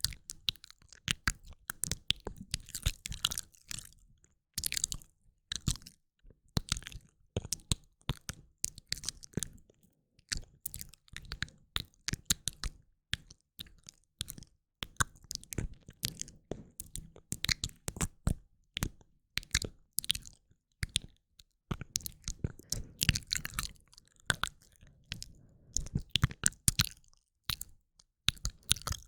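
Close-miked ASMR mouth sounds: quick wet clicks and smacks of the lips and tongue, coming in dense runs with short pauses between them.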